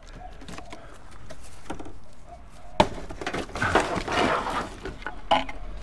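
Hard plastic junk being handled, with a sharp crack a little under three seconds in, a stretch of rattling and scraping, and another knock near the end.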